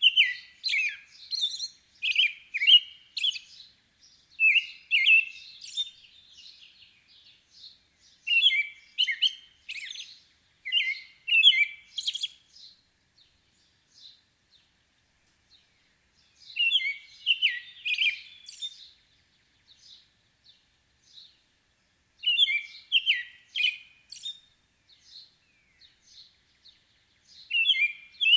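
Songbirds singing: bursts of quick high chirps and short trills, a phrase every few seconds with pauses of up to four seconds between them.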